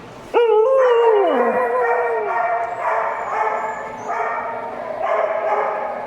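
Dogs howling. A loud howl starts suddenly and slides down in pitch over about a second, and further howling and yipping voices overlap and carry on after it.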